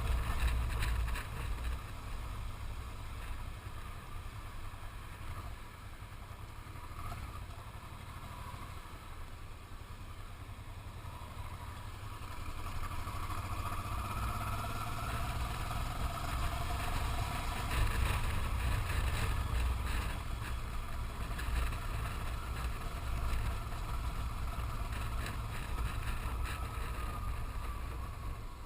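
A motorcycle on the move, with wind buffeting the microphone in a steady low rumble. An engine whine rises in pitch about halfway through and then falls away near the end.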